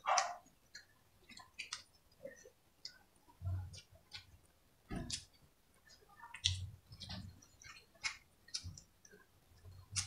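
Mukbang eating sounds: irregular wet mouth clicks and lip smacks from two people chewing rice and pork caldereta eaten by hand, with a few dull low thumps among them.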